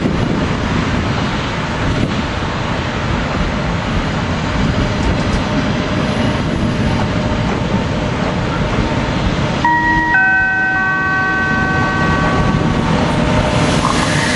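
NS DD-AR double-deck train rolling past alongside the platform with a steady rumble of wheels on rail. About ten seconds in, several steady ringing tones start one after another and die away over about three seconds.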